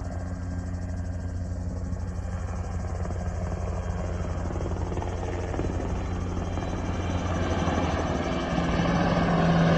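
Firefighting helicopter's rotor and engine running steadily, with a fast rotor beat, growing louder toward the end.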